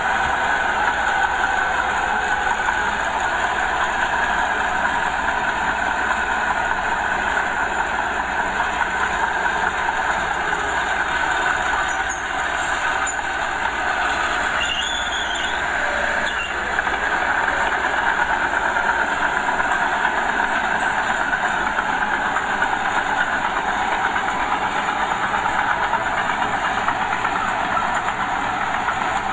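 Small Komatsu crawler bulldozer at work: its diesel engine runs steadily and its steel tracks clatter as it pushes soil.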